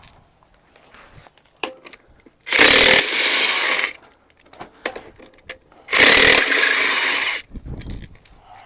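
Impact wrench run in two bursts of about a second and a half each, backing bolts out of a Big Cam Cummins engine during teardown, with small clinks of parts in between.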